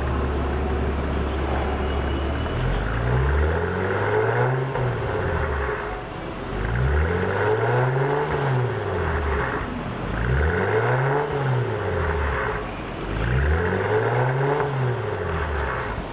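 Mercedes-Benz C300 engine through a THUNDER aftermarket header, mid pipe and quad-tip muffler: idling for the first couple of seconds, then blipped up and let fall back four times, about every three seconds.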